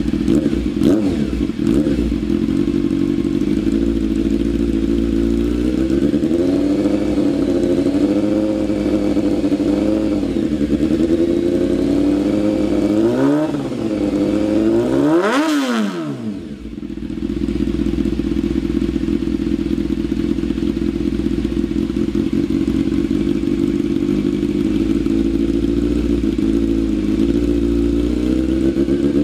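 600cc superbike engine idling through an aftermarket replica slip-on exhaust, with a few light throttle blips. About halfway through it revs sharply up and falls back, then settles to a steady idle.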